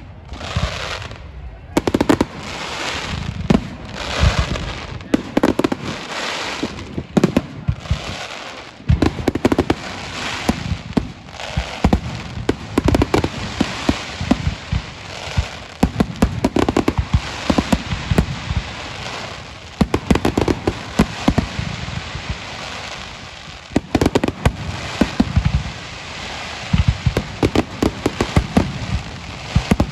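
Fireworks display: a continuous barrage of sharp bangs and crackling bursts, many overlapping.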